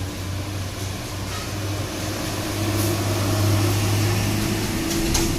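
Diesel engine of an overloaded sugarcane truck pulling uphill under load, a steady low drone that grows louder about halfway through.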